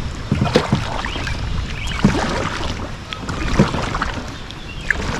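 Kayak paddle strokes dipping and splashing in the water, roughly one every one and a half seconds, over a low steady rumble.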